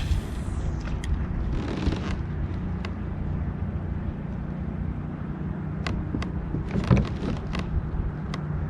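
Fishing gear handled in a kayak while working a lure: scattered small clicks and knocks over a steady low hum, with a brief swish near the start.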